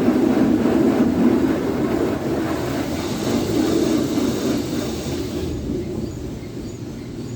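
Jim Coleman Water Wizard 1.0 automatic car wash running: a steady, noisy rumble of its machinery that quietens about five and a half seconds in.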